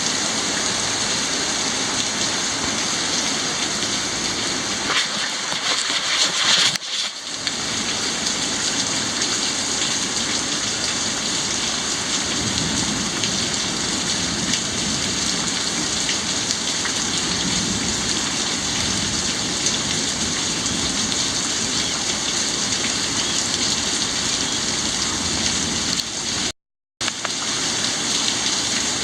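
Rain falling steadily, an even hiss. The sound cuts out completely for a moment near the end.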